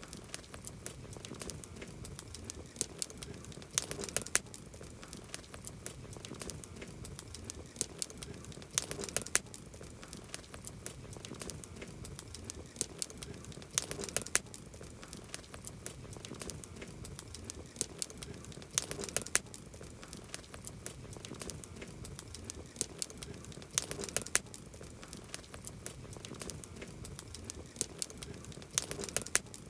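Wood campfire crackling and popping steadily over a soft hiss, with a louder cluster of pops about every five seconds.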